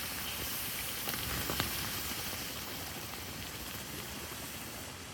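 Campfire embers hissing and sizzling as they are doused with water, with a couple of sharp pops about a second in; the hiss slowly fades as the fire is drowned.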